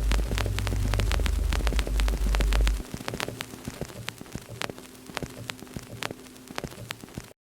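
Wood fire crackling with many quick sharp pops. A loud deep hum sits under it for the first three seconds or so, then stops, leaving the crackle quieter. The sound cuts out completely just before the end.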